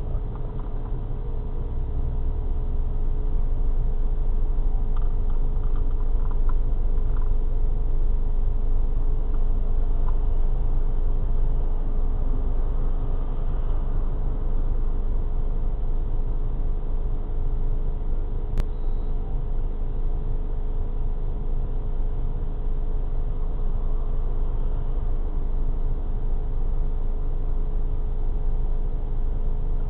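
Car engine idling while the car is stopped, heard inside the cabin as a steady low rumble with a faint steady hum over it. One sharp click, once, past the middle.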